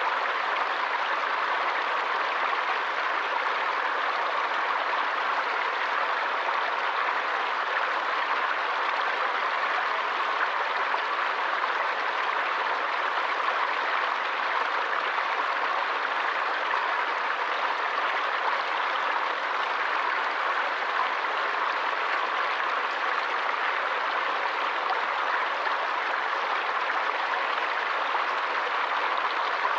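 Stream water flowing: a steady, unbroken rush of water.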